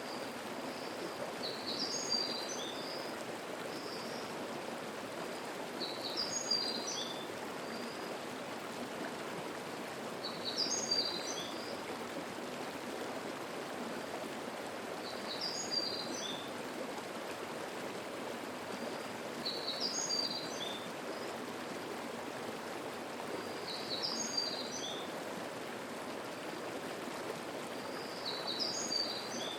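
Mountain stream babbling steadily, with a songbird repeating a short, high song phrase about every four to five seconds, seven times.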